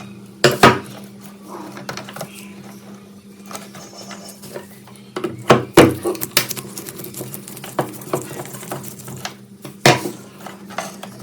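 Metal clinks and knocks from hand tools and parts of an old rusty exhaust fan being worked on, a few sharp strikes in a row near the middle and another near the end, over a steady low hum.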